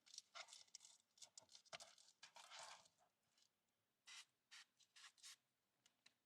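Soft rustling and small clicks of things being handled, in short irregular bursts, busiest in the first three seconds.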